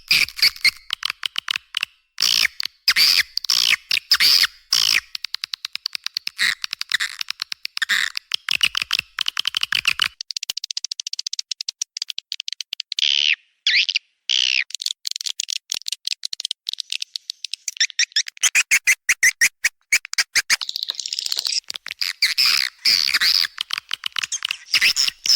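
Swiftlet call track used as a lure sound for swiftlet houses: rapid, high, buzzy chirps and twitters, many a second. The chirps run into a smoother trill through the middle stretch, with a short break partway through.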